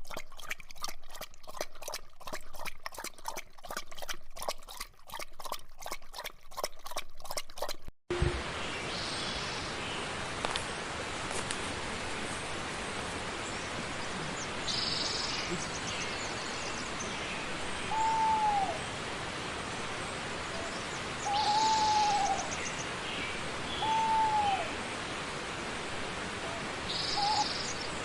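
A rapid, dense rhythmic pattern for the first several seconds, then a sudden cut to a steady rushing hiss. Over the hiss a bird gives three short down-sliding calls and a few higher chirps.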